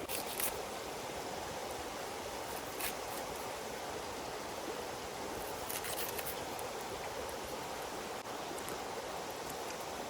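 Steady rushing noise, with a few faint sharp clicks about three and six seconds in.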